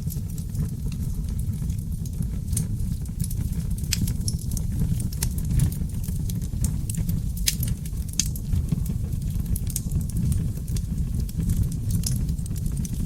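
Wood fire burning in a fireplace: a steady low roar of flames with frequent sharp crackles and pops from the burning logs, coming at irregular intervals.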